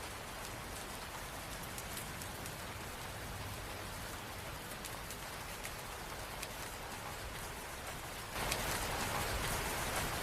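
Steady rain ambience: an even hiss of rainfall with scattered drop ticks. About eight seconds in it abruptly gets louder and brighter and stays so, as the rain track switches to heavier rain.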